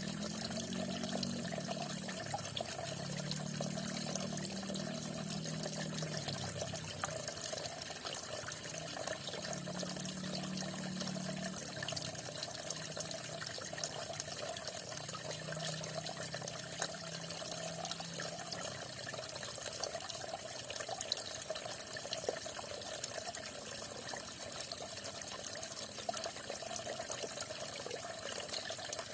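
Falling water splashing and rushing steadily into water, with no let-up. A faint low hum swells and fades a few times in the first half.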